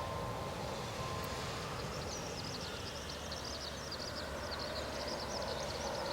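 Steady outdoor background rumble, with a bird twittering in quick, high chirps from about two seconds in until near the end.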